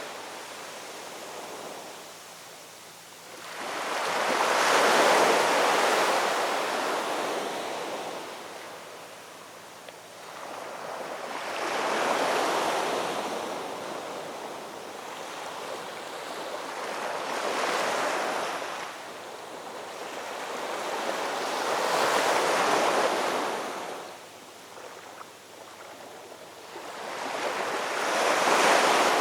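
Ocean waves breaking on a shoreline: five swells of rushing surf, each building and washing back, about every five to six seconds.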